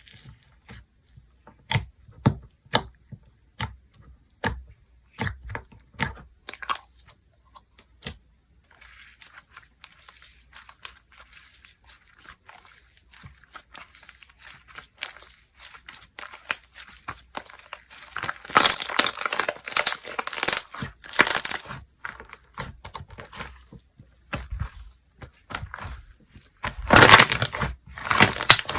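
Slime being squished, stretched and poked by hand, giving a string of sharp pops and clicks that gives way to crackly, crinkling squishing, loudest about two-thirds of the way through and again near the end.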